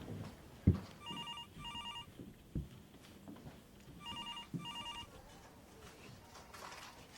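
A telephone ringing in the British double-ring pattern, two short rings close together, heard twice about three seconds apart. A loud dull thump comes just before the first ring, with softer knocks later.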